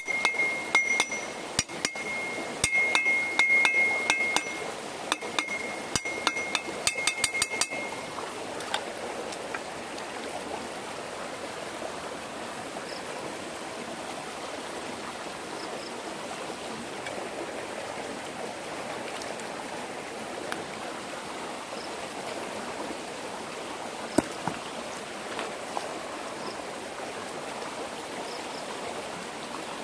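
Rapid metallic tapping with a clear ringing tone for about the first eight seconds. Then a steady rush of flowing stream water.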